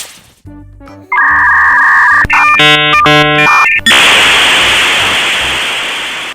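Light background music, then loud sound effects: a steady two-tone horn-like blare about a second in, a pulsing chord of horn-like tones, and a long hiss that slowly fades and then cuts off.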